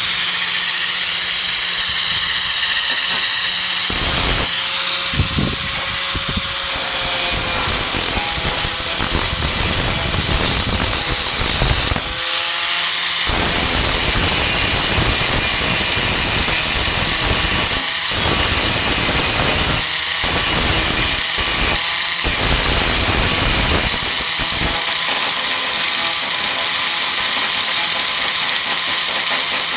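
Angle grinder with a Type 27 grinding disc running continuously, grinding down flux-core welds on a steel tailgate patch. The disc's steady high whine carries throughout, while the heavier grinding noise drops away briefly several times as the disc comes off the metal and goes back on.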